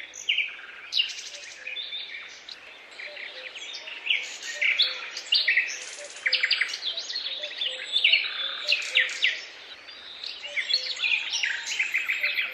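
Songbirds singing: many overlapping chirps, quick trills and short whistled notes, coming thick and fast.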